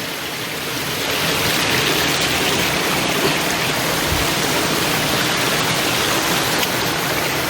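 River water rushing over a waterfall, a steady even rush that swells slightly in the first second.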